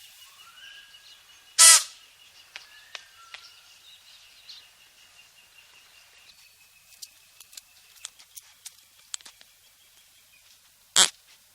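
Outdoor nature sounds: scattered bird chirps over a faint steady high tone. A loud, short, harsh call comes about two seconds in, and a loud sharp snap comes near the end.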